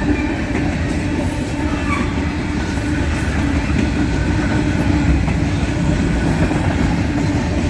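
Freight train rolling slowly past, with a steady low rumble of wheels on rail.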